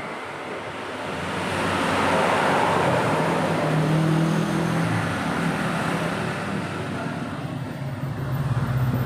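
Motorcycle engine running in a workshop: a rushing noise builds over the first couple of seconds, then a low, slightly wavering engine note carries on.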